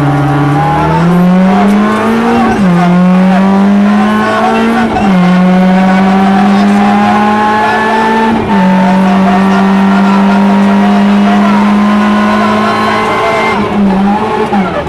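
Rally car engine at full throttle, heard from inside the cabin: the revs climb through the gears with upshifts about two and a half, five and eight and a half seconds in. It then holds at high revs and lifts off near the end.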